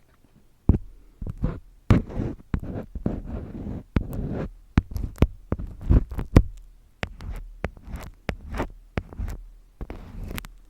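Close-miked handling sounds: irregular sharp taps and clicks, some with soft low thumps, between short stretches of rustling and scraping.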